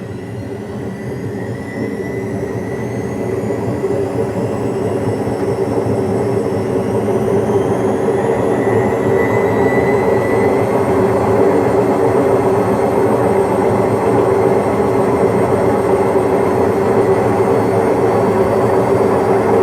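Washing machine spinning up on its spin cycle: a rising motor whine climbs and levels off at full speed about ten seconds in, over a steady drum rumble that grows louder.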